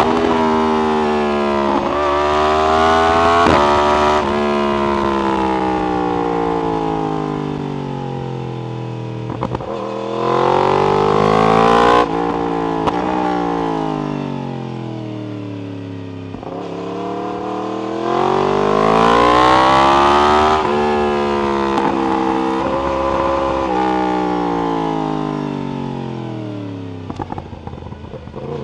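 Yamaha R1 inline-four through an Akrapovic exhaust, revving up through the gears with quick steps at each shift, then winding down on the overrun, several times over. Short crackles on deceleration about a third of the way in and again near the end.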